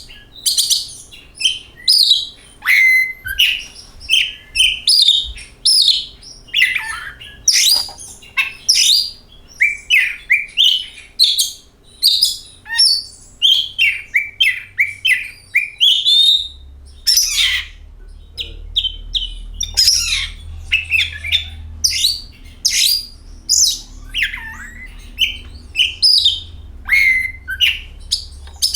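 Oriental magpie-robin (kacer) singing a fast, varied song of whistles and chirps, phrase after phrase with only short gaps between them.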